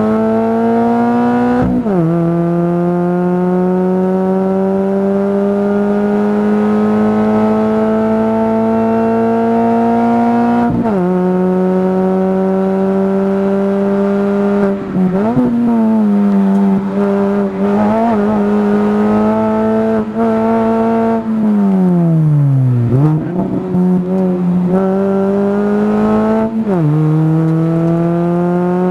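Mini Cooper race car engine heard from inside the cabin, pulling hard up the straight. Its note climbs and drops sharply at two upshifts, about 2 s and 11 s in. It then eases off and falls in pitch under braking, with quick blips on the downshifts around three-quarters of the way through, before climbing again and shifting up once more near the end.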